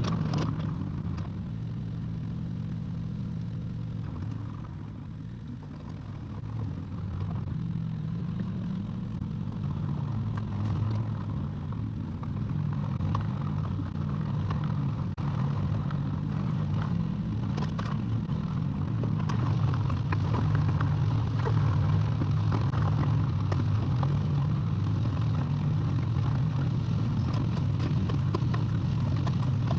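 Excavator's diesel engine running steadily under load, with scattered knocks and clatter from the machine at work. The engine gets louder a few seconds in and again about two-thirds of the way through.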